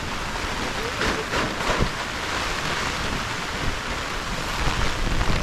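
Steady heavy rain, with wind gusting against the microphone in a low, uneven rumble.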